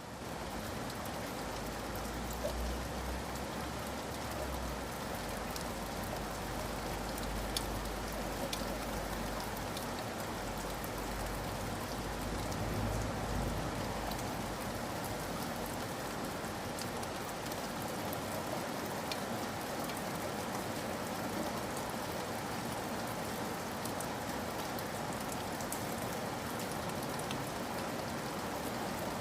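Steady rain falling: an even hiss with scattered drop ticks. A low rumble sits underneath for the first half and dies away about fourteen seconds in.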